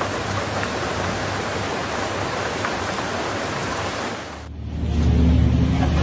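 A steady, even rush of storm wind and rain. About four seconds in it cuts off and a low, steady motor hum takes over, louder than the rush.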